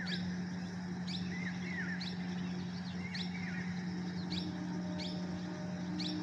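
Small birds chirping: short high chirps come about once a second, with curling, twittering lower notes in the first half. A steady low hum runs underneath.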